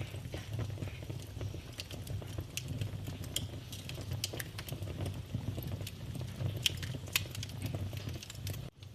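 Wood fire crackling in a fireplace: scattered sharp pops and snaps over a steady low rumble of the flames. The sound drops out for a moment near the end.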